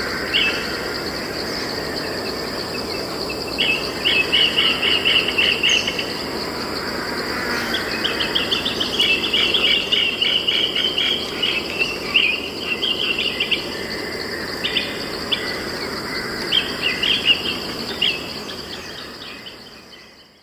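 Forest ambience: a steady high-pitched insect drone with a songbird singing bursts of rapid trills, several phrases in a row. The whole sound fades out near the end.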